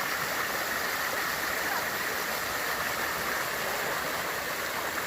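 Creek water rushing and splashing over rocks in small cascades, a steady even wash of sound.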